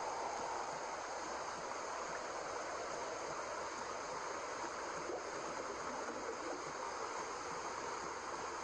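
Steady white noise for lulling a baby to sleep: an even, unchanging hiss.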